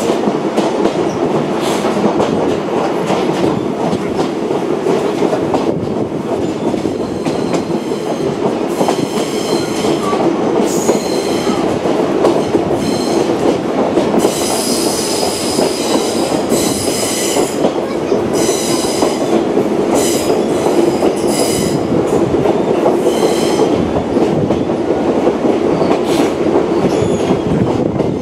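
Watarase Keikoku Railway torokko train running along the track: a steady rumble of wheels on rail with rail-joint clicks. From about a third of the way in until near the end, the wheels squeal in repeated high-pitched stretches.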